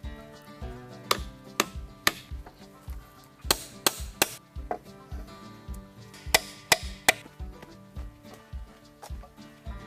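Sharp wooden knocks of a hand tool striking wood, mostly in quick groups of three, over background music with a steady beat.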